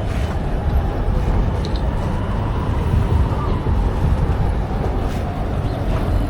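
Steady rumble of street traffic and wind while a bike-share bicycle is ridden along a city street, with a few faint clicks.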